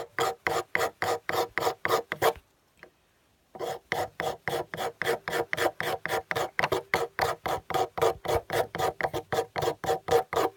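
A knife blade scraping a piece of wood in quick, even strokes, about four a second, shaving off fine wood crumbs for tinder. The strokes stop for about a second a little over two seconds in, then resume.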